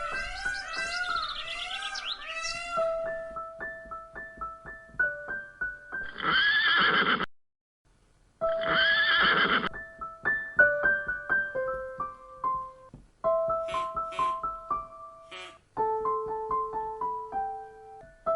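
Gentle piano music playing, with animal calls over it: a quavering, whinny-like call in the first three seconds, then two loud drawn-out calls, each rising and falling in pitch, about two seconds apart near the middle.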